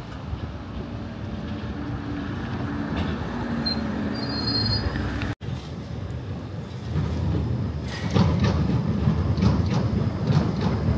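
Tram running along the track, with a steady low rumble and faint motor tones. Brief high wheel squeals come about four to five seconds in, and the noise grows louder with clattering over the last three seconds.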